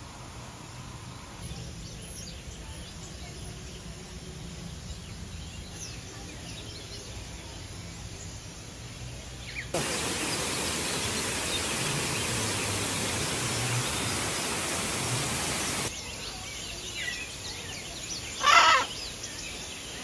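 Outdoor bird ambience with faint scattered chirps. From about ten seconds in to about sixteen seconds it is covered by a steady hiss. Near the end a single loud, harsh bird call lasts about half a second.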